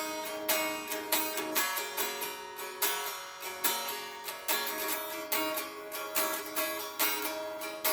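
Guitar strummed in a steady rhythm, an instrumental passage without singing.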